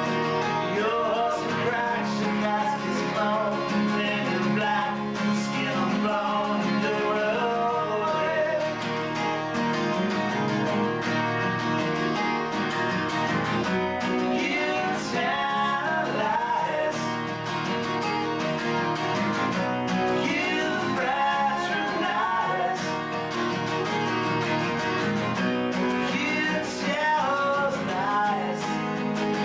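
Acoustic guitar song with a voice singing over the strummed chords, recorded through a basic VHS camcorder microphone.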